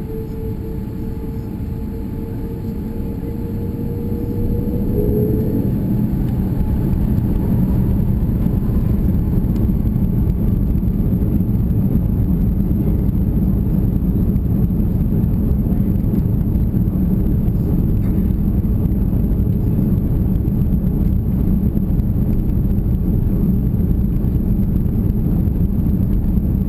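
Airbus A340-600 cabin during takeoff: the whine of its four Rolls-Royce Trent 500 engines rises slightly over the first five seconds or so, then gives way to a steady, loud low roar and rumble as the engines reach takeoff power.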